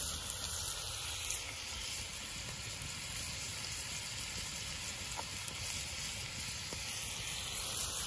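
Sliced mushrooms frying in oil in a skillet over a campfire, a steady sizzle with a few faint ticks.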